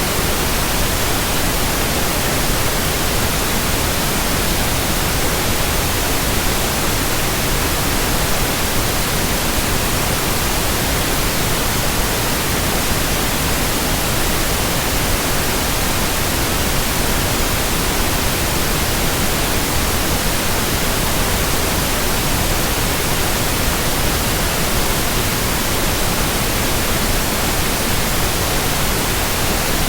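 Steady white noise: an even, unchanging hiss spread across all pitches, with no rhythm, whoosh of blades or hum of machinery in it.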